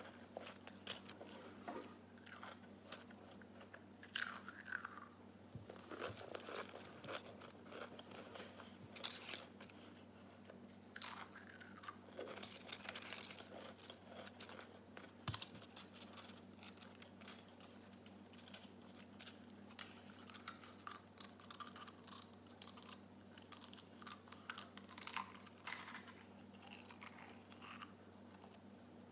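Pringles potato crisps being bitten and chewed with the mouth close to the microphone, crunching in irregular bursts of small crackles.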